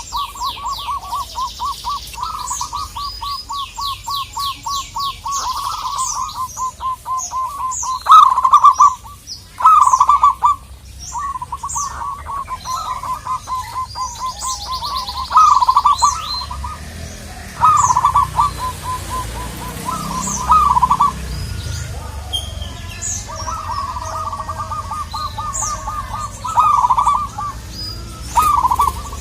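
Zebra doves cooing: long runs of rapid staccato notes, broken every few seconds by louder, fuller phrases. Other small birds chirp higher up, with fast repeated high notes in the first few seconds.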